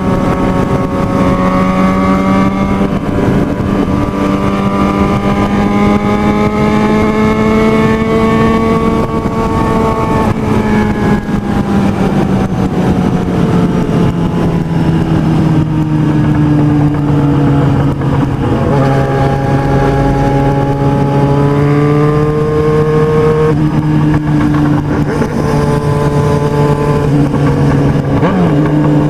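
Motorcycle engine running hard at high revs, its pitch climbing slowly and falling back. There are sudden drops in pitch about two-thirds of the way through and again near the end, like gear changes.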